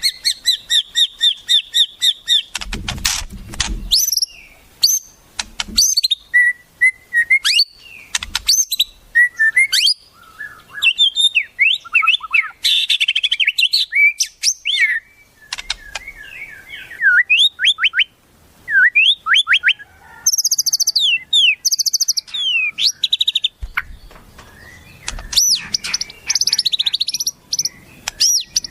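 Wild songbirds singing and calling: a changing string of chirps, fast repeated notes, rising and falling whistled notes and very high rapid trills, of the wild-bird kind used as masteran song for training magpie-robins.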